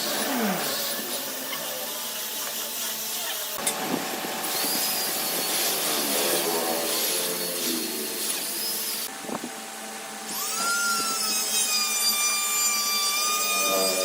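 Power tools cutting and working wood in short, abruptly changing stretches. About ten seconds in, a tool's motor spins up to a steady high whine.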